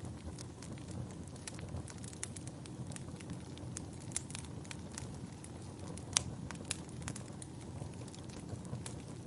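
Wood fire burning in a fireplace: a steady low rumble of flames with frequent sharp crackles and pops, the loudest pop about six seconds in.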